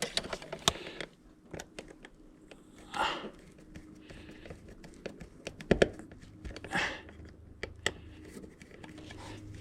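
Handling noises of wiring a light fixture: scattered small clicks and scrapes of wires and a small screwdriver at the terminal screws, a couple of brief rustling swishes, and one sharper knock about six seconds in.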